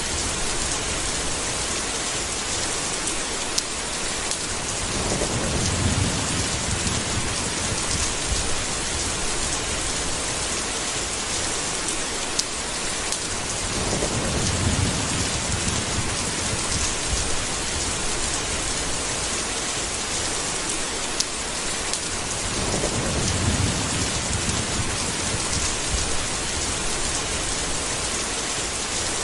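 Steady heavy rain with low rumbles of thunder rolling in three times, about every eight or nine seconds.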